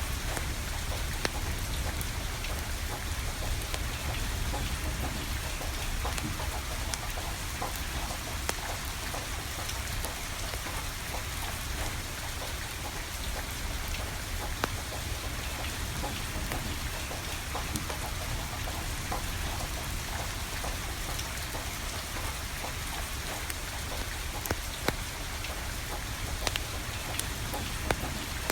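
Steady rain falling, with scattered sharp pops and crackles from a burning wood fire.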